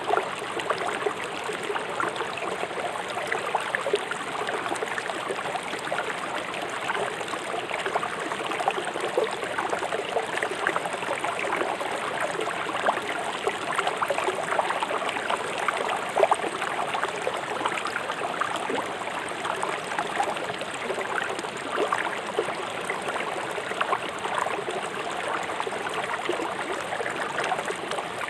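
River water rushing fast over and around rocks: a steady babble dense with small splashes and gurgles.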